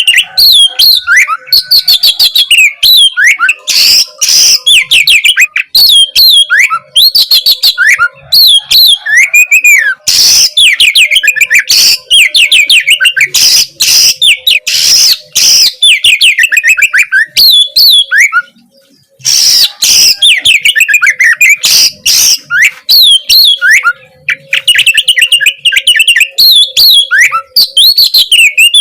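Oriental magpie-robin (kacer) singing loudly and without let-up in rapid, varied phrases of sliding whistled notes mixed with sharp clicking notes. There is a pause of about a second around two-thirds of the way through.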